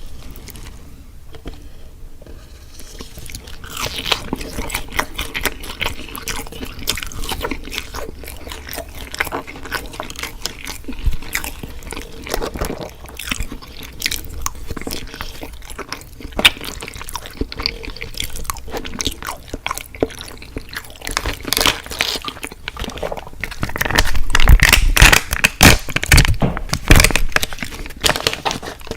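Close-miked chewing and crunching of crispy fried food, a steady run of crackling bites, louder for a few seconds near the end.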